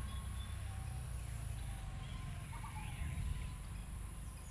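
Faint bird chirps over a steady low background hum.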